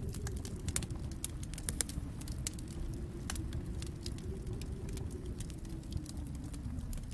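Wood fire in a fireplace crackling, with frequent quick sharp pops over a steady low rumble.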